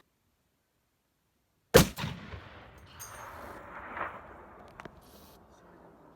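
A single shot from a Barrett M107 .50-calibre rifle, a very loud crack about two seconds in, followed by a long rolling echo that slowly dies away over several seconds.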